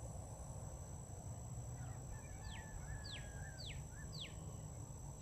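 A bird calling: four quick down-slurred whistles, about two a second, starting a little over two seconds in. Under it, a steady high insect drone and a low wind rumble.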